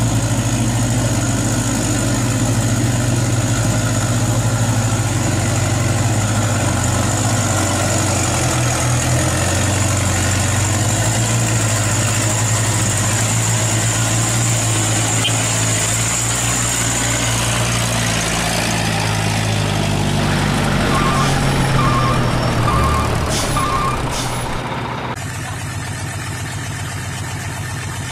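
An engine running steadily, with four short beeps about a second apart near the end.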